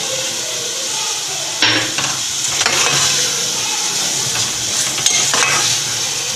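Biryani masala sizzling in hot oil in a metal pot while a steel ladle stirs it, with a steady hiss and the ladle scraping against the pot now and then.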